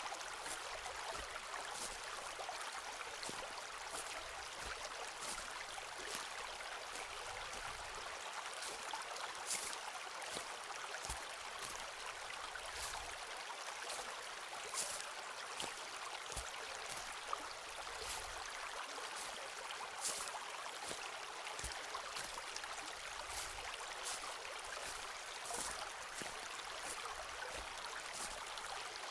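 Footsteps walking through a forest, with irregular crunching clicks and a few soft thumps over a steady rush of flowing water.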